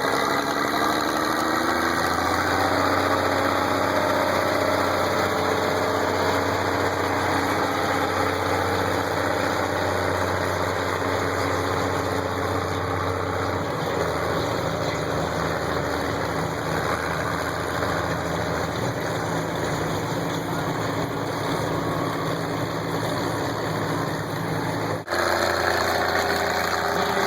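Old farm tractor engine running steadily, its pitch rising over the first couple of seconds, then holding; the sound breaks off abruptly for an instant about 25 seconds in and picks up again.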